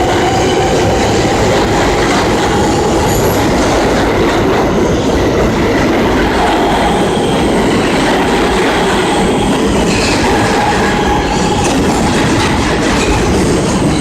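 New York City subway R160 train running, a loud steady rumble with faint wheel squeal.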